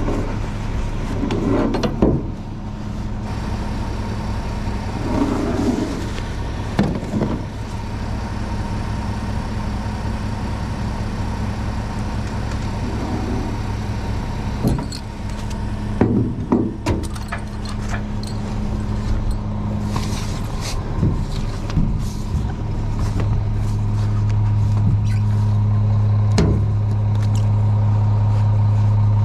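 Heavy truck diesel engine running steadily, getting louder over the last several seconds, with scattered metallic clanks and knocks from the recovery rigging.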